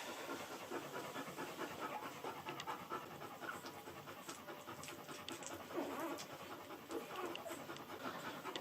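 American Akita mother dog panting steadily and softly while nursing her newborn puppies.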